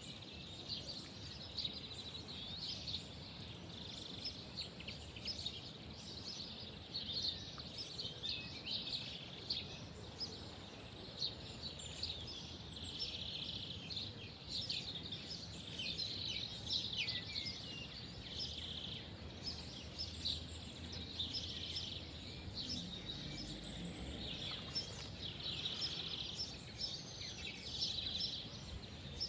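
Small songbirds chirping and twittering, with many short calls and a few brief trills, over a low, steady background rumble.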